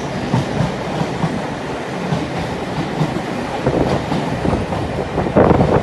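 Railway carriage running along the line, its wheels clattering over the rail joints, with a louder clunk near the end.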